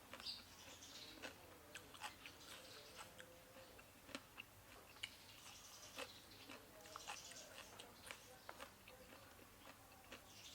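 Faint close-up chewing of food, a steady scatter of small crunches and wet mouth clicks.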